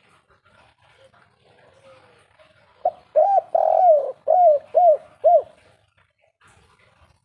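Spotted dove (tekukur) cooing one 'kuk 3' song phrase, starting about three seconds in. It is about six arched coos with a longer drawn note in the middle, closing on three short 'kuk' notes. Faint chirping runs underneath.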